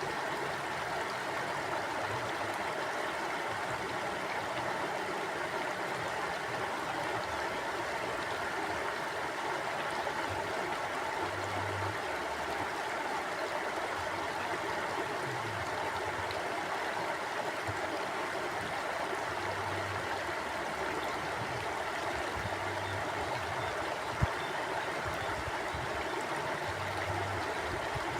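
Mountain stream flowing, a steady, even rush of water over rocks. A single sharp click stands out about 24 seconds in.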